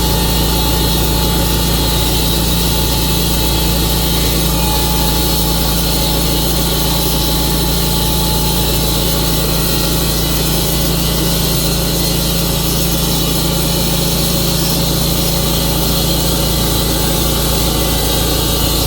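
Engine of a Tru-Cut portable sawmill running steadily.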